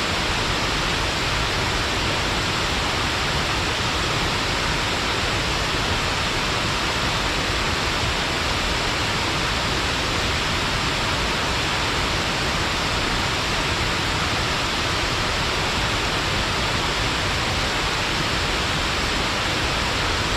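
Shiraito Falls, a low, wide curtain waterfall of many thin streams, giving a steady, even rush of falling water with no breaks or changes.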